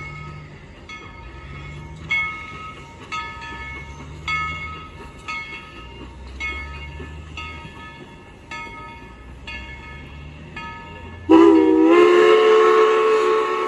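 Steam locomotive working with its bell ringing steadily, about two strokes a second, over a low rumble of the engine. About eleven seconds in, the steam whistle blows loudly: a chord of several tones that dips slightly in pitch, then holds.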